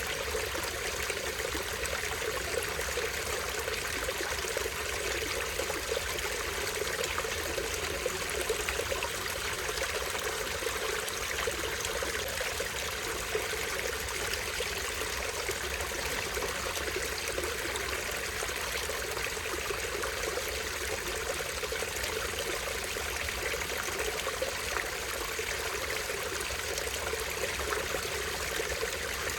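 Small stream splashing and trickling over a tiny waterfall: a steady, unbroken water sound.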